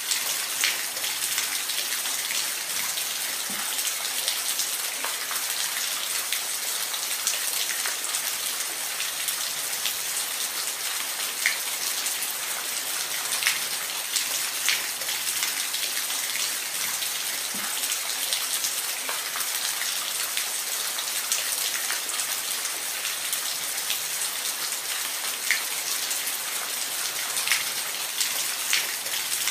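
Waterfall sound: a steady hiss of falling water, with scattered sharp drip-like splashes standing out now and then.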